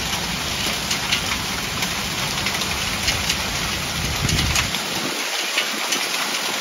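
Heavy storm downpour striking hard surfaces: a steady dense hiss with scattered sharp ticks of single impacts. A low rumble under it drops away about five seconds in.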